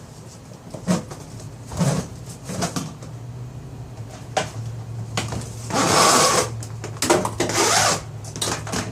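Handling noises of plastic hoses and parts being fitted: scattered knocks and clicks, then two loud stretches of scraping and rustling a little past halfway, over a steady low hum.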